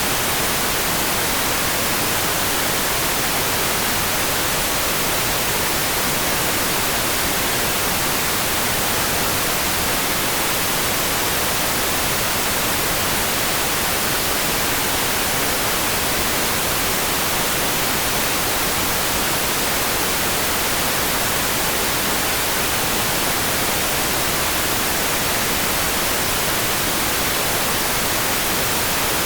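Steady, even hiss of a rain sleep-sound track, close to white noise: no single drops or patters stand out, and it does not change at all.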